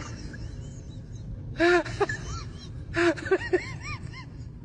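Dog whining: short, high-pitched cries that rise and fall, in two bursts, one about 1.7 s in and a quicker run of several about 3 s in.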